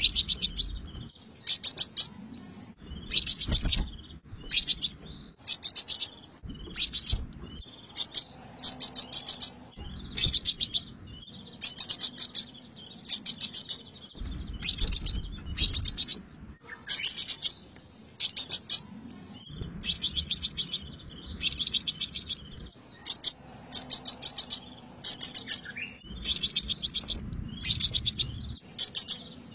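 Sunbird song: bursts of rapid, sharp, high chirps, one burst every second or two, with a faint low rumble under some of them.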